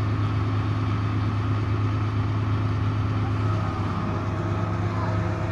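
Delivery truck engine idling with a steady low hum, its note shifting slightly about three and a half seconds in.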